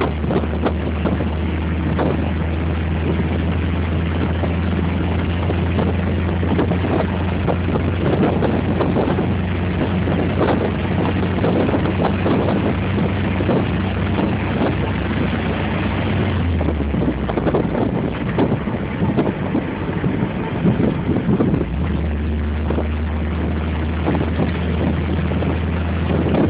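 Car engine running steadily with road and wind noise, heard from inside the cabin. About 16 seconds in the engine note drops for some five seconds, then comes back.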